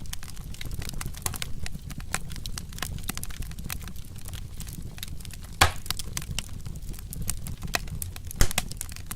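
Wood fire crackling with frequent irregular snaps over a steady low rumble, and two louder pops, one a little past halfway and one near the end.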